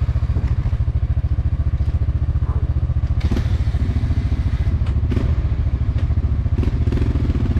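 Motorcycle engine idling with a steady, even throb, with a few knocks and clatters over it.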